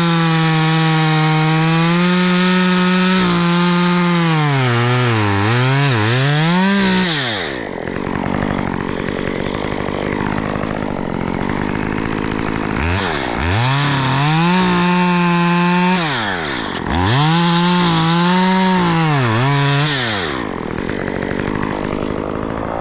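Two-stroke chainsaw cutting white oak at full throttle, its pitch sagging under load and recovering. About seven seconds in it drops back to idle, then revs up and cuts again in two more bursts before falling back to idle near the end.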